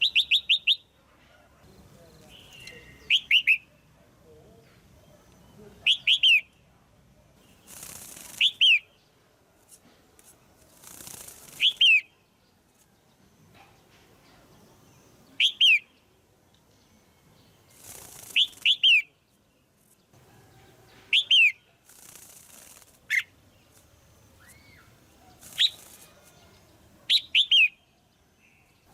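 Female red-whiskered bulbul calling: short, sharp chirps that slide downward in pitch, in quick groups of two to four, repeated every few seconds. A few brief rustling noises, like wing flaps, fall between some of the groups.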